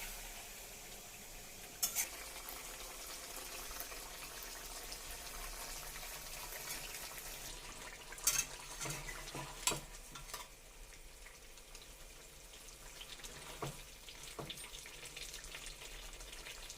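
Chicken pieces frying in hot coconut oil: a steady sizzle, broken by a few sharp knocks of a stirring spoon against the pan.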